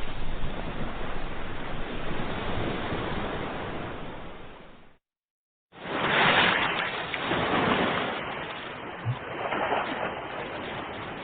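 Ocean surf washing steadily. It fades away and cuts to silence for under a second about five seconds in, then a new wave surges in loudly and slowly recedes.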